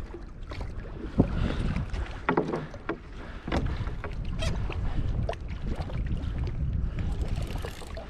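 Sounds aboard a fishing kayak on open water: water sloshing and splashing around the boat with scattered knocks and clicks, over a steady low rumble of wind on the microphone.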